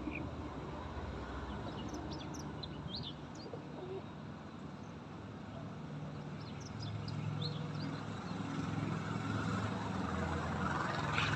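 Birds chirping in short scattered calls, in two clusters, over a steady low rumble that grows louder toward the end.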